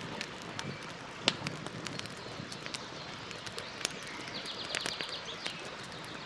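Campfire burning, with a steady hiss and irregular sharp crackles and pops of wood; the loudest pop comes a little over a second in. About four seconds in there is a brief, rapid run of high ticking lasting about half a second.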